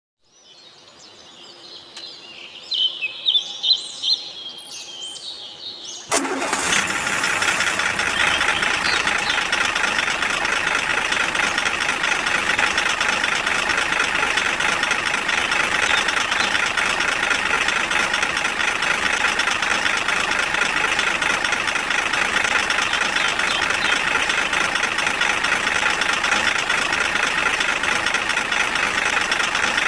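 A few seconds of quick, high chirps, then about six seconds in a steady engine-like running sound starts suddenly and carries on unchanged.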